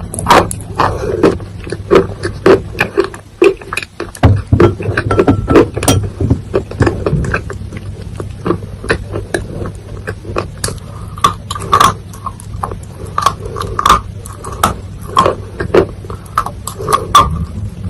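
Close-miked mouth sounds of chewing soil wetted with water: dense, irregular crunches and crackles with wet smacking, over a steady low hum.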